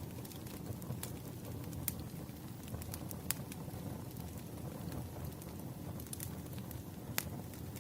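Wood fire burning with a steady low rumble and scattered sharp crackles and pops, the clearest about two seconds in, a little past three seconds, and near the end.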